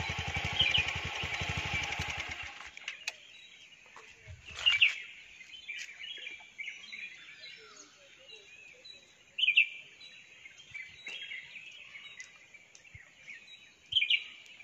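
Birds chirping in short calls, the loudest about four, nine and fourteen seconds in. A vehicle's engine idles under them at first and stops about two and a half seconds in.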